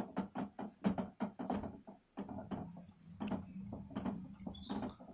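Spoon knocking and scraping against a cooking pan while stirring onion paste with ginger-garlic paste in oil: repeated irregular knocks, several a second.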